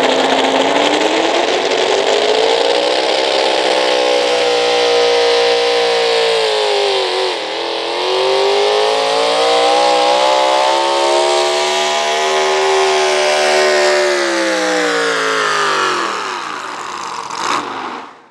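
Gas-engined 4x4 pickup pulling truck running flat out under load: the engine pitch climbs in the first few seconds and holds high, dips sharply and recovers about seven seconds in, then winds down over the last few seconds, with a brief sharp crack just before the sound cuts off.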